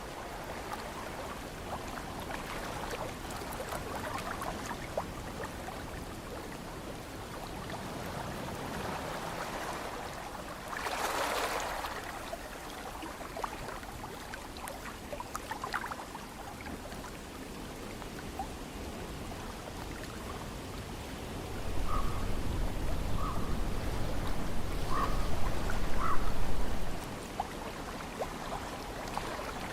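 Ocean water washing steadily, with one louder splash about eleven seconds in. About two thirds of the way through, wind buffets the microphone with a low rumble for several seconds, and a few short chirps sound over it.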